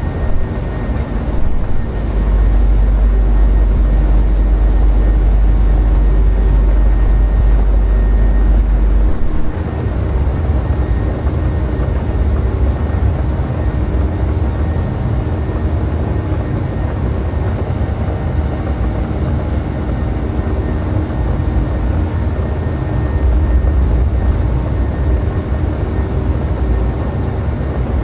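Boeing 737's jet engines running loud: a steady rumble with a thin high whine held throughout. A deeper low rumble sits under it from about two to nine seconds in.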